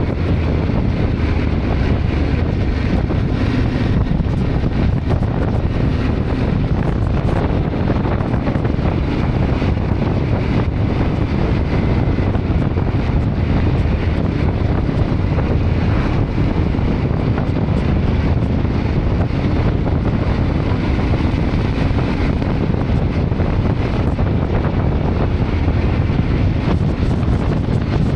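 Steady wind rushing over the camera microphone of a moving motorcycle, heaviest in the low end and unbroken throughout.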